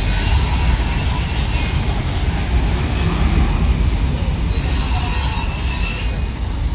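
Freight train of covered wagons rolling past: a steady heavy rumble of wheels on rail, with high-pitched wheel squeal at the start and again around five seconds in.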